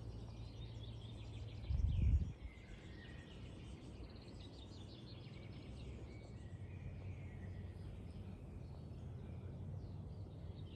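Small birds chirping and calling on and off over a steady low rumble, with one brief low thump about two seconds in.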